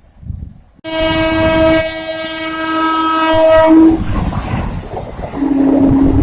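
Indian Railways locomotive horn sounding one long blast that begins suddenly about a second in, over the running noise and rail clatter of a passing train; near the end a second, lower-pitched horn blast starts.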